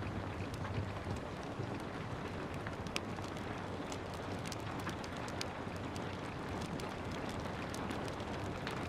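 Steady rain hiss with the scattered pops and crackles of a burning wood fire.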